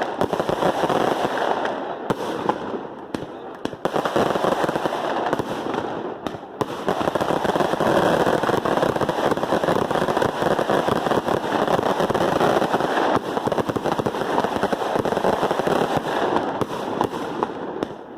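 Dense, continuous crackling of fireworks or firecrackers going off in rapid succession, with a few brief lulls.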